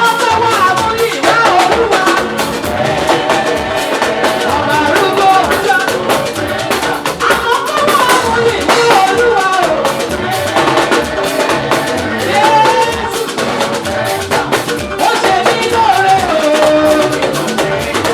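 Live praise band music: a drum kit with rimshots and bass drum keeping a busy beat under a gliding melody line.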